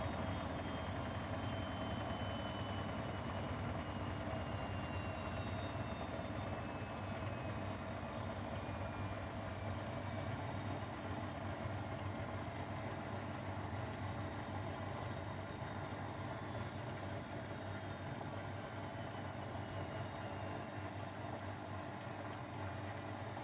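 Grundig washing machine's final spin winding down: a steady motor and drum hum with a thin whine that slowly falls in pitch, growing a little quieter as the drum slows.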